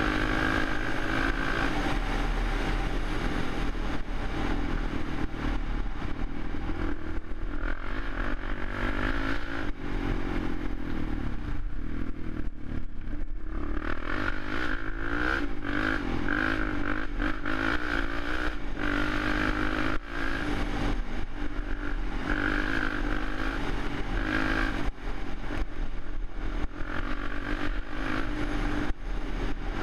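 Suzuki LTZ 400 quad's single-cylinder four-stroke engine running continuously, its revs rising and falling.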